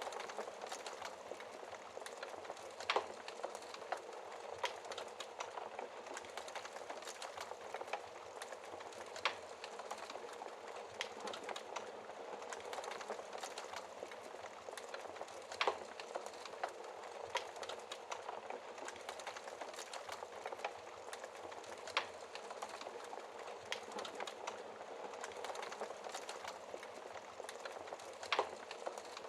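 Wood fire crackling steadily: a dense patter of small crackles over a soft hiss, with a sharper, louder pop about every six seconds.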